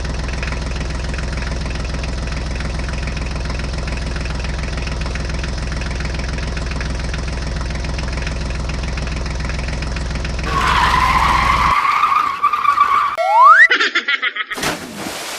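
Sound-effect engine drone of a toy vehicle, a steady low hum for about eleven seconds, then a wavering high-pitched screech-like noise, a quick rising glide near the end, and a short noisy stretch.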